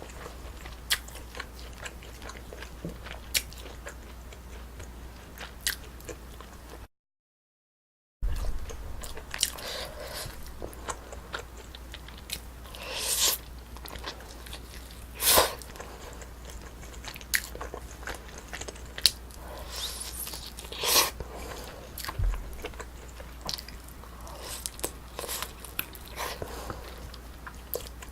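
Close-miked mouth sounds of a person eating Korean braised spicy chicken with rice and potatoes: irregular biting, chewing and wet smacking, with some crunchy bites. About seven seconds in, the sound drops out completely for just over a second.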